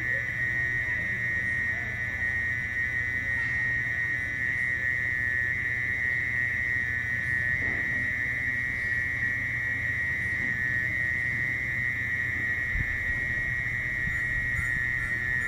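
Mole cricket (orong-orong) singing one long, unbroken, shrill high trill, over a low steady rumble.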